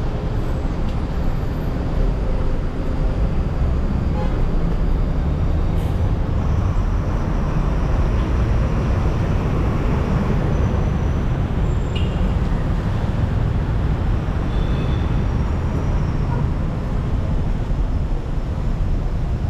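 Steady city street traffic: cars and buses running past, a continuous low rumble.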